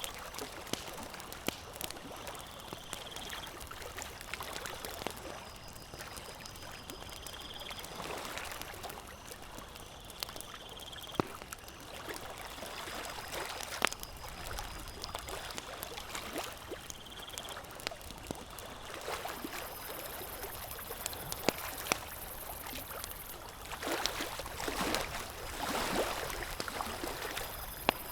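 Campfire crackling, with sharp pops scattered irregularly over a steady wash of lapping water. A faint high chirp recurs every few seconds, and the water surges louder near the end.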